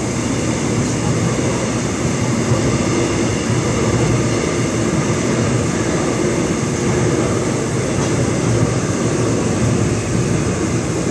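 Seoul Subway Line 7 train running at speed, a steady, loud rumble of wheels and motors heard from inside the car.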